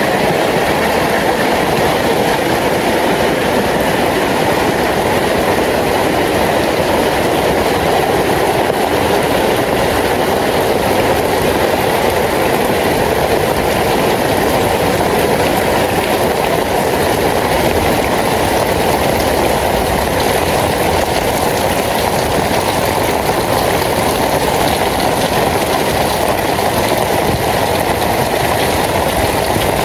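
Steady heavy rain, an even loud hiss that does not let up.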